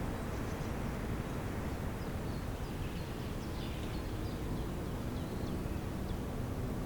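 Outdoor spring ambience: a steady low rumble, with faint, brief bird chirps scattered high above it.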